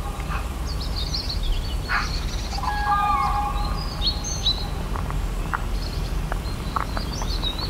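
Birds chirping and calling: quick high chirps throughout, one lower drawn-out call about three seconds in, and scattered short chirps later on, over steady low outdoor background noise.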